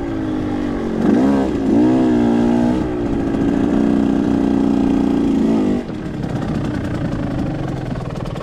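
2021 KTM 125 XC's two-stroke single-cylinder engine being ridden, its revs rising and falling with the throttle. It then holds a steady note and eases off about six seconds in.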